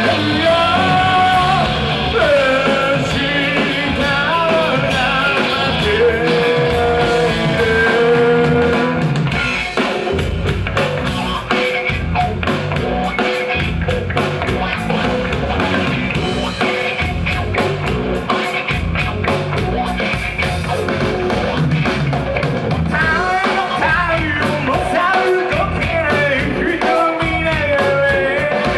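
Live rock band playing, with a lead singer over electric guitar, bass and drum kit. The singing runs through about the first third and comes back near the end, with the band playing on its own in between.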